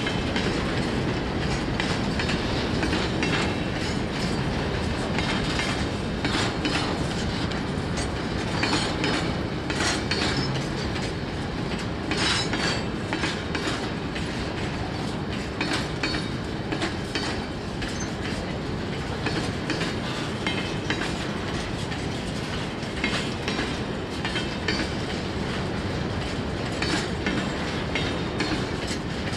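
Freight train wagons rolling past, a steady rumble with wheels clicking irregularly over rail joints.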